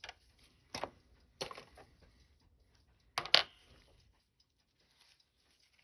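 A few sharp clicks and taps from small watchmaker's tools and watch parts being handled on a bench. The loudest is a double tap about three seconds in, followed by faint small ticks.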